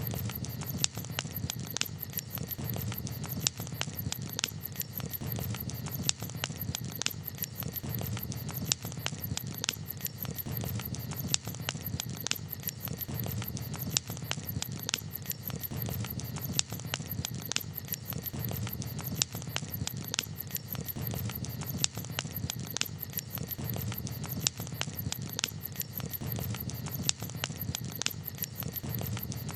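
Campfire crackling: frequent irregular sharp snaps and pops over a steady low background noise.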